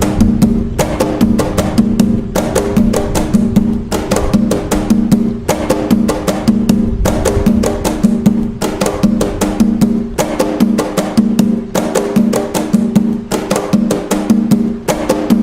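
Atabaque drums playing the toque nagô rhythm of Umbanda without a break: quick, steady strikes over a ringing low drum tone.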